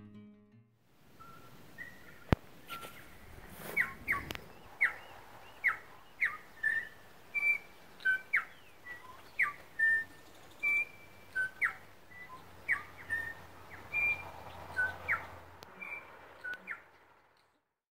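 A bird singing a run of short chirps and whistled notes, some of them quick downward sweeps, at about one a second. A single sharp click sounds a little over two seconds in.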